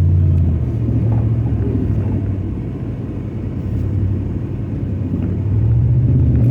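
Dodge Ram 1500 pickup engine running under throttle, easing off for a few seconds in the middle and building up again near the end.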